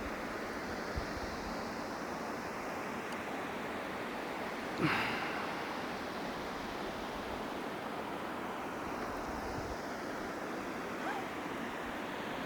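Astelleen Burn waterfall rushing steadily, a constant even hiss of falling water. A brief knock or rustle comes about five seconds in.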